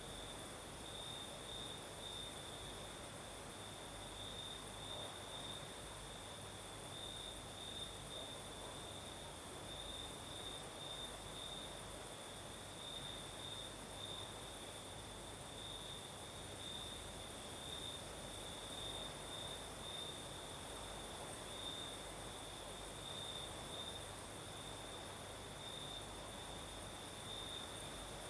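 Crickets singing at night: a steady, pulsing trill, with a fainter, very high insect hiss above it that swells for a few seconds in the middle and again near the end, over a soft rustle of night breeze.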